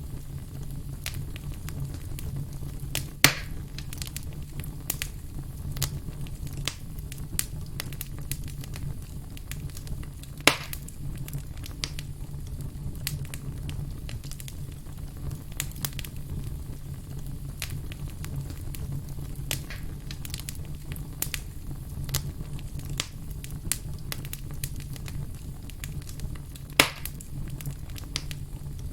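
Wood fire crackling, with many small snaps over a low steady rumble and three loud pops about 3, 10 and 27 seconds in.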